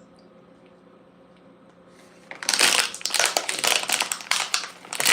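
A faint steady hum, then about two seconds in a loud, dense crinkling and crushing close to the microphone that continues to the end.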